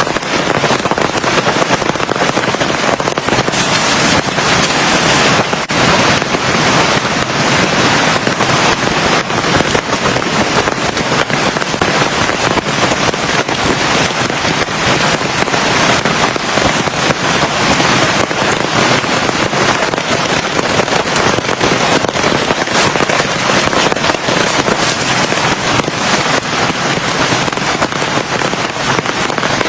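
Heavy rain pouring down steadily, a dense crackle of drops hitting hard.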